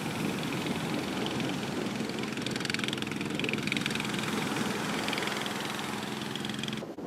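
An engine running steadily, with a low, even hum under a constant wash of noise. It cuts off abruptly near the end.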